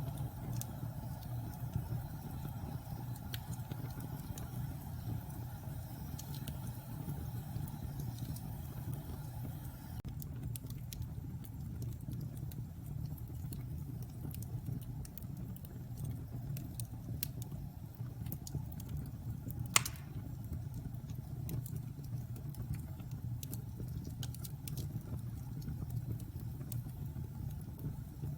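Wood fire burning in a fireplace: a steady low roar of flames with scattered small crackles, and one loud pop about two-thirds of the way through.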